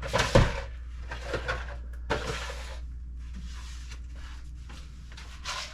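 Packages and items being handled and set down on pantry shelves: several knocks and thumps, the loudest about half a second in, with rustling of packaging in between, over a low steady hum.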